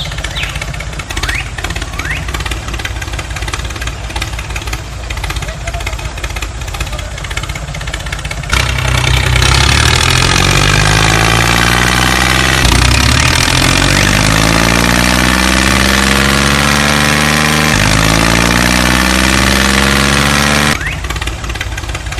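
A motor running with a steady hum, then about eight seconds in it turns much louder and revs up over and over, its pitch rising with each rev, until it drops back abruptly near the end.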